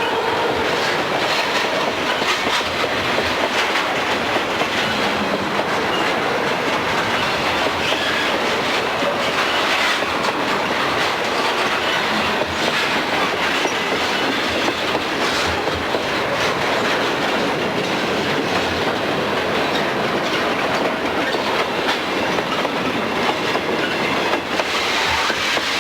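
Freight train cars rolling past at close range: steady, loud wheel-on-rail noise.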